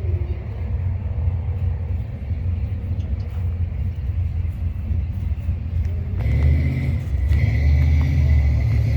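A motor vehicle engine running with a low rumble. About six seconds in it gets louder, and a steady high whine joins it.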